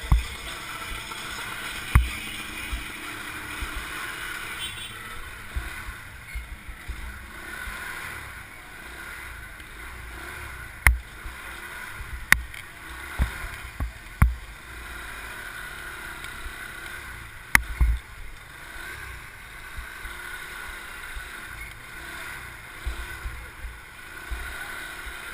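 Wind buffeting the microphone over steady road noise from a motorbike ride, with a few sharp knocks.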